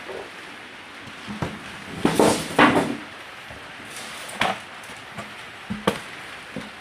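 Handling noises: a few scattered knocks and clicks, with a louder run of scraping and rustling about two to three seconds in.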